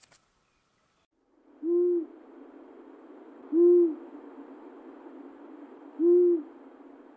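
A forest bird's low hooting call: three single, short hoots about two seconds apart, over the steady hiss of a field recording.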